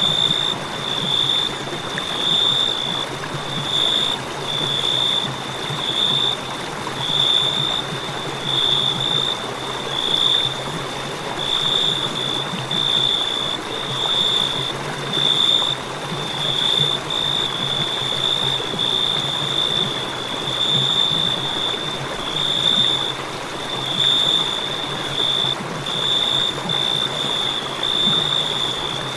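Crickets chirping in a continuous high-pitched trill that swells and fades about once a second, over a steady background hiss.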